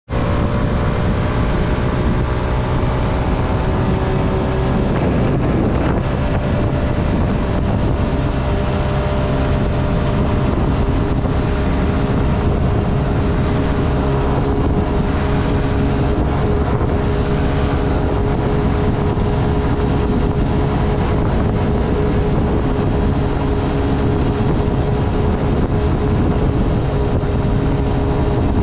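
Honda Navi's small single-cylinder engine running at riding speed, under heavy wind noise on the microphone. The engine's pitch shifts briefly about five seconds in.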